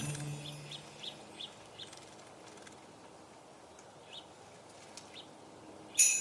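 Faint, sparse high chirps of small birds, after Christmas music fades out in the first second; sleigh-bell music starts again sharply just before the end.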